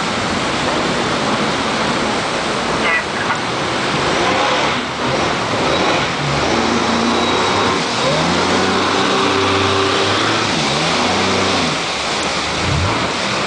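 A motorboat under way: a loud, steady rush of water and wind, with the engine's pitch rising and falling in the middle.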